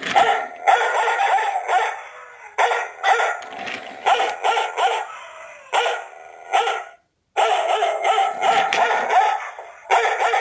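A dog barking over and over in quick succession. The barking cuts out completely for a moment about seven seconds in, then resumes.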